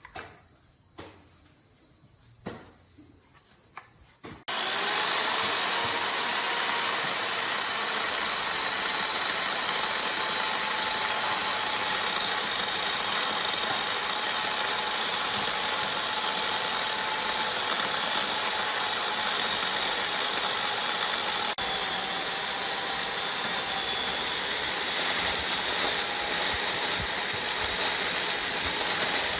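A motorised woodworking power tool switches on abruptly about four and a half seconds in and runs steadily at full speed. Before that there are only a few light clicks.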